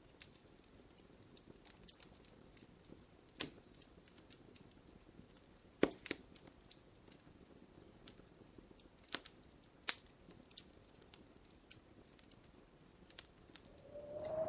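Wood fire crackling in a fireplace: irregular sharp pops and snaps over a faint low hiss, with a few louder pops spread through.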